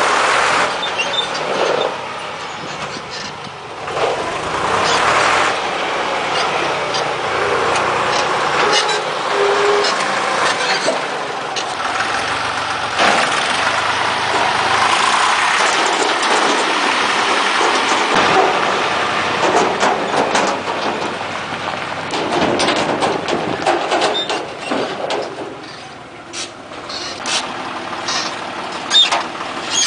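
A tractor running as it drives along, a steady engine noise that drops for a moment late on, with a few sharp clicks near the end.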